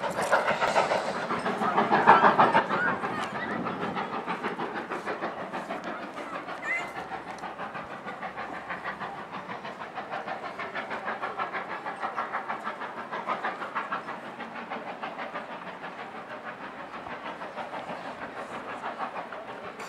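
Steam-hauled passenger coaches rolling past, their wheels clattering steadily over the rails. Loudest about two seconds in, then running on a little fainter.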